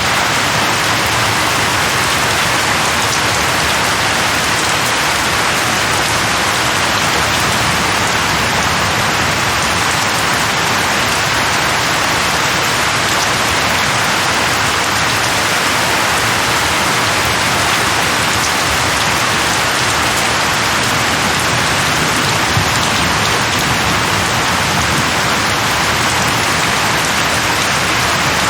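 Steady rain falling on leaves, an even continuous hiss without breaks.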